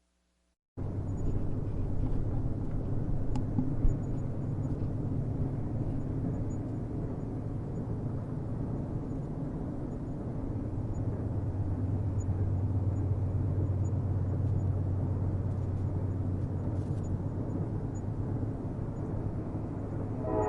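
Train rumbling steadily, a low rumble that starts abruptly about a second in and holds level, with a single click about four seconds in.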